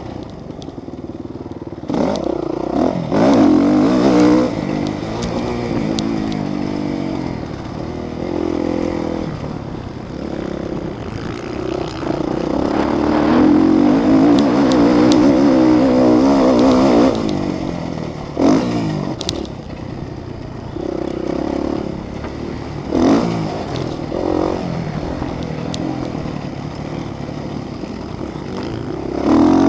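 Motocross motorcycle engines revving hard, their pitch rising and falling as the bikes race around the track, with several louder surges as bikes come close.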